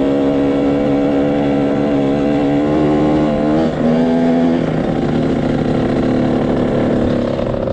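Small off-road vehicle engine running at a steady pitch. About three and a half seconds in the pitch dips briefly and picks back up, then the sound turns rougher and less even.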